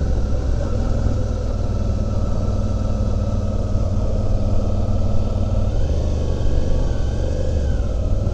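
Suzuki V-Strom 650's V-twin engine running steadily while the motorcycle is ridden, under a heavy low rumble of wind on the microphone. The engine note rises and falls slightly from about six seconds in.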